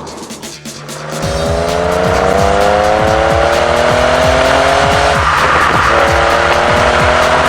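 Ford Mondeo ST220's 3.0-litre V6 through a stainless steel performance exhaust, accelerating hard: the engine note climbs steadily, dips at a gear change about five seconds in, then climbs again. Music with a steady beat plays underneath.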